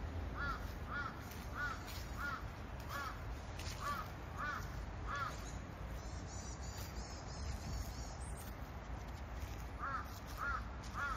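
A bird calling in a quick run of about eight short, even calls, a little under two a second, then after a pause three more near the end, over a steady low outdoor rumble.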